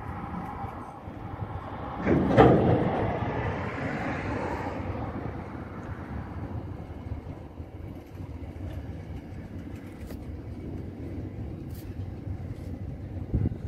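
Double-stack container freight train rolling past at close range: a steady rumble of wagons on the rails. About two seconds in there is a sudden louder burst that fades away over a few seconds.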